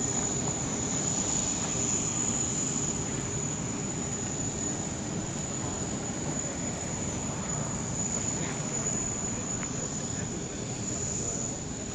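Steady airfield background noise: a continuous rumble and hiss of distant engines and activity, with a constant high-pitched whine over it and a faint low hum.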